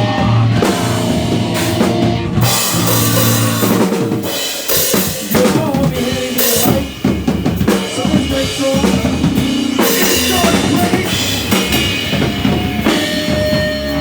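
Live rock band playing loudly, the drum kit to the fore with bass drum and snare hits over electric guitars.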